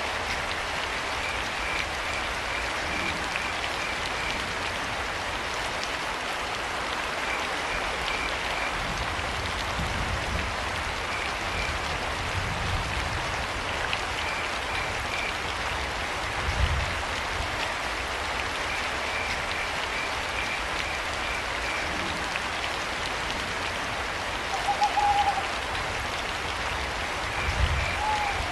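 Steady rain falling, with crickets chirping in short runs of rapid pulses every few seconds. An owl hoots briefly twice near the end, and a few low rumbles come and go underneath.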